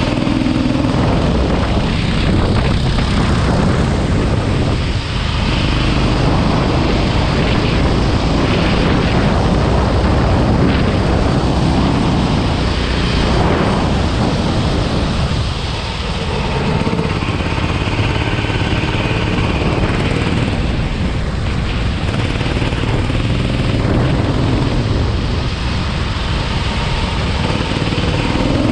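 Go-kart engine running hard, its pitch rising and falling as it revs up on the straights and drops off into the corners.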